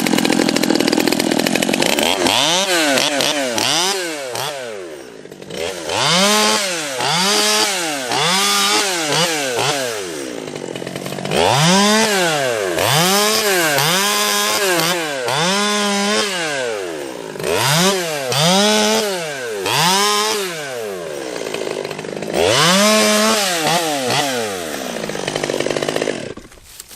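Two-stroke Stihl chainsaw running a 3/8 Pico chain, cutting a small tree. The engine speed rises and falls about once a second in five runs, with short breaks between them.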